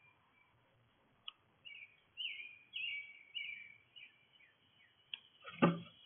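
Small songbird chirping a quick run of short, high notes, then a sharp, loud thump near the end.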